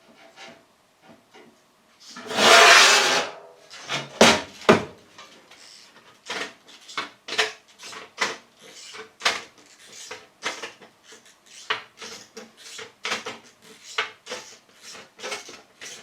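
Sheet-steel repair patch being worked by hand into shape for a car sill. About two seconds in there is a loud scraping rattle of the metal, then two sharp knocks. After that comes an even run of light taps, roughly one or two a second, as the patch is hammered to shape.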